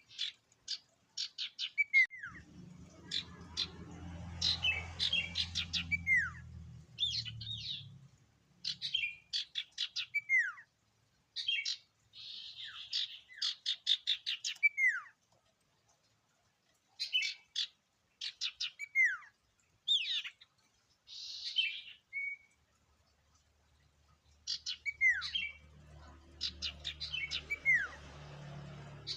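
A sirtu (common iora) singing in quick, varied phrases: bursts of sharp rapid chirps and short downward-sliding whistles, with pauses of a second or two between them. A low hum sits under the song for several seconds a couple of seconds in, and again near the end.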